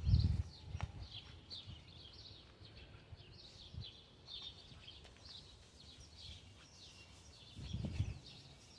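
Small birds chirping and twittering in short repeated calls, with a brief low rumble at the start and another near the end.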